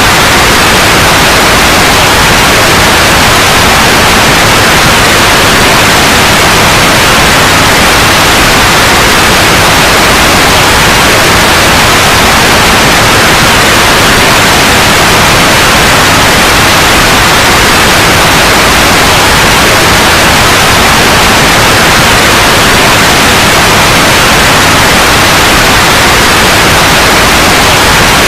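Loud, steady white noise: a continuous even hiss that does not change.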